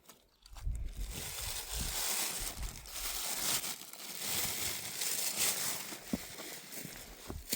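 Dry herb plants rustling and crackling as they are handled and pulled by hand, starting about a second in and going on irregularly.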